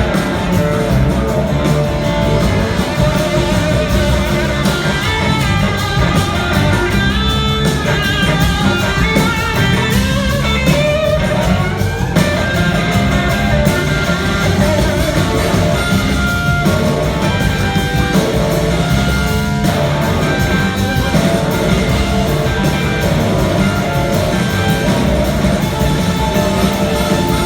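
Live blues-rock band playing an instrumental passage, a lead guitar line winding and gliding over a steady bass and drum groove.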